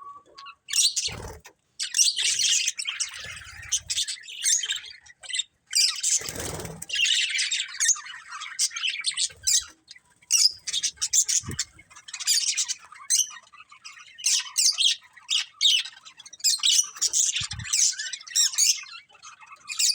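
Budgerigars chattering continuously with rapid high chirps and squawks, with a few brief low thumps among them.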